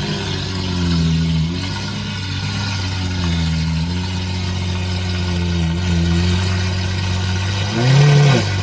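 Car engine idling steadily, then revved once briefly near the end, the pitch rising and falling back.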